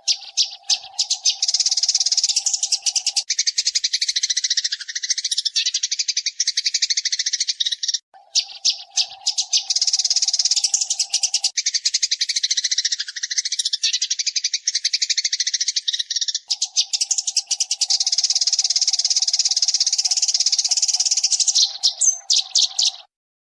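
Eurasian tree sparrow song: fast, dense chirping chatter in three long bouts broken by brief pauses, stopping shortly before the end.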